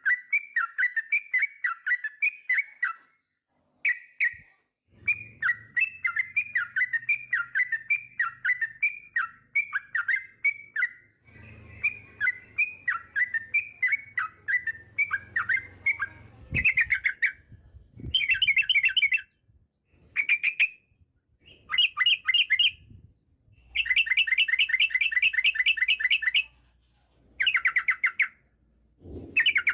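Yellow-vented bulbul (trucukan) singing: a run of short down-slurred chirps, about three or four a second, then from about halfway louder bursts of fast bubbling notes with short pauses between them.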